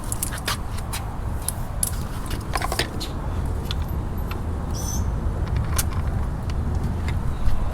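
Irregular small metallic clicks and clinks, like hardware or tools being handled, over a steady low rumble, with a brief high squeak about five seconds in.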